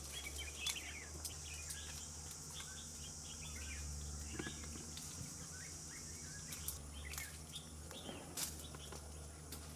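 Countryside ambience: a steady high-pitched insect buzz that cuts off about two-thirds of the way through, with scattered short bird chirps over it.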